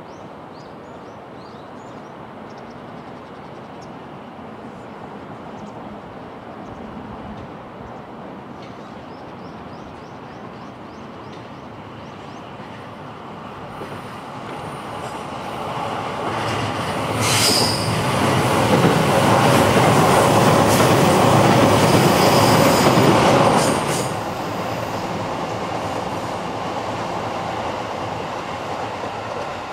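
E233-series electric train passing on the line, growing louder from about halfway, loudest for about six seconds with wheel noise and a brief high screech as it draws near, then dropping off suddenly as it goes by.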